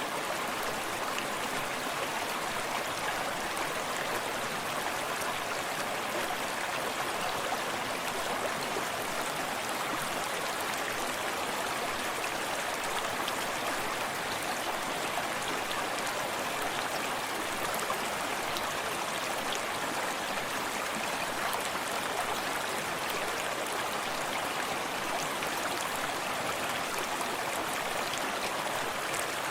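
Forest stream running steadily, water lapping and splashing close by over a continuous rushing flow, with the cascade of a small waterfall further off.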